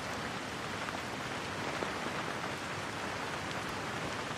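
Steady rain falling: an even hiss of rainfall with faint scattered drop ticks.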